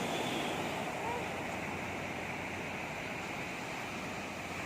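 Sea surf washing onto the beach: a steady rushing noise of breaking waves.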